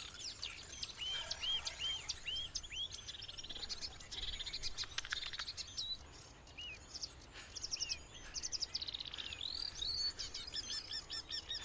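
Marsh warbler singing: a fast, ever-changing run of chirps, rattling trills and repeated arching whistles, a medley built largely from imitations of other birds' songs.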